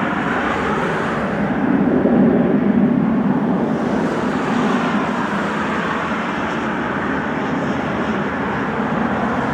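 Lockheed L-1049 Super Constellation's four Wright R-3350 radial piston engines running at takeoff power: a steady, loud, deep drone that swells slightly about two seconds in.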